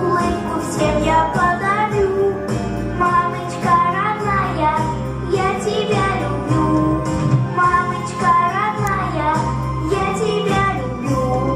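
Young children singing a song over a recorded backing track with a steady beat.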